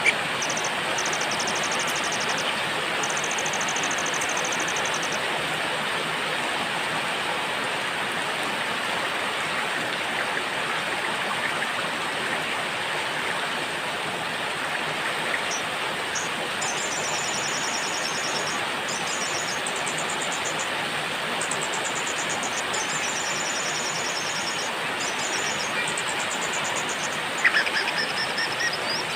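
Steady rain with small songbirds singing high, fast trilling phrases over it, in two spells: the first few seconds, then again from about halfway until near the end. A brief sharp sound near the end stands out above the rain.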